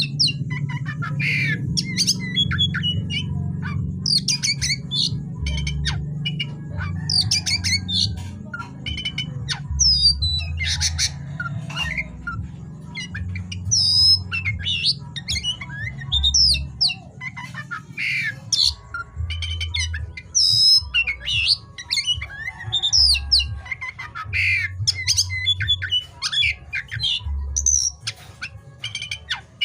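Oriental magpie-robin (kacer) singing on and on: a quick run of short, varied high phrases with sliding whistles and harsh squawks, broken by brief gaps. A low hum sits underneath, steady at first and coming and going in the second half.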